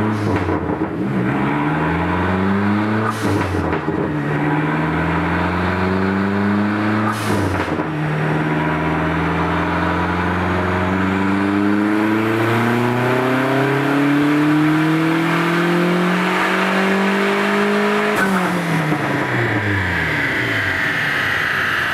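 Dodge Neon SRT-4's turbocharged 2.4-litre four-cylinder at full throttle on a chassis dyno. It revs up with two sharp drops in pitch as it shifts up, then climbs steadily in one long pull of about ten seconds. Near the end the throttle closes and the revs fall away as the rollers coast down.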